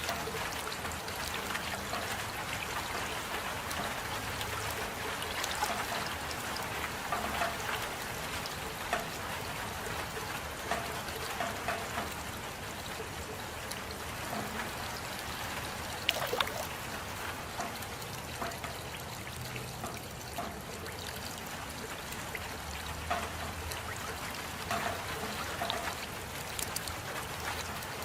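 Steady rain with water trickling and scattered drops plinking and tapping, one sharper tap about sixteen seconds in.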